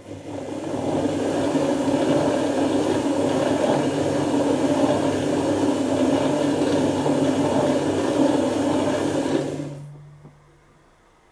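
Dyson Contrarotator CR01 washing machine running a wash action: the drums turn through the wash water with a steady sloshing noise over a low motor hum, building up over the first second. About ten seconds in the noise stops and the motor hum fades soon after.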